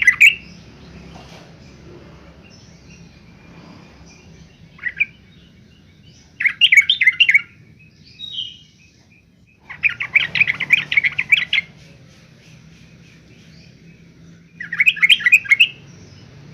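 Yellow-vented bulbul calling in bursts of rapid, chattering notes: four main bouts, the longest about two seconds, with a short note between them.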